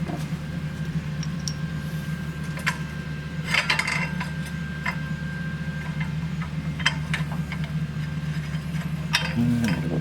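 Scattered metallic clinks and knocks of tools and suspension hardware as a new shock absorber is worked into its mount, over a steady low hum.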